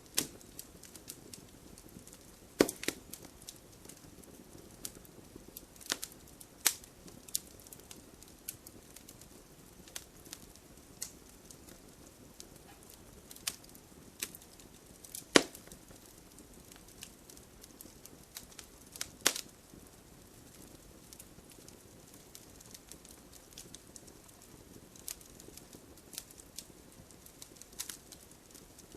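Wood fire crackling in a fireplace: irregular sharp pops and snaps from the burning logs over a soft hiss, with a few louder pops, the loudest about halfway through.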